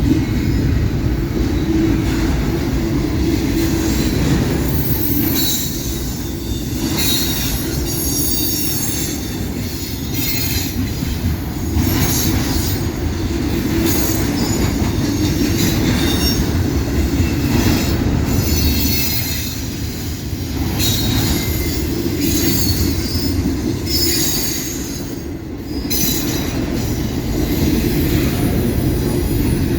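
Freight cars of a long CSX intermodal train rolling past, with a steady low rolling noise and repeated high-pitched wheel squeal that comes and goes.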